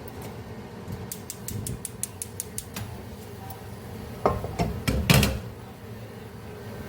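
A quick run of light clicks, then a few louder knocks and clatters of household objects being handled.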